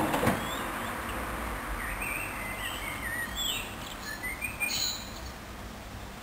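Birds chirping in short, scattered calls over a faint low hum, after a loud noise cuts off right at the start.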